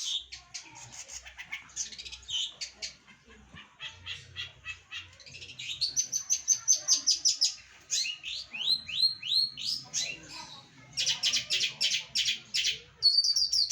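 Long-tailed shrike (cendet) singing its full, varied song. Soft scattered notes give way to quick high trills and runs of repeated rising chirps.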